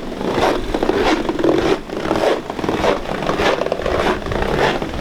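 Footsteps crunching and scraping through deep, wind-packed snow at a walking pace, about one step every half second or so.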